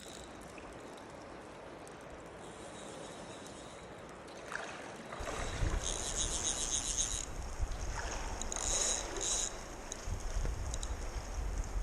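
Stream water rushing steadily. After about four seconds a low wind rumble on the microphone comes in, with short bursts of splashing.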